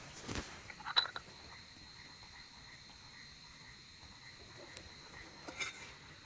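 Steady high chirping of crickets, with a few sharp clicks and knocks over it, the loudest about a second in.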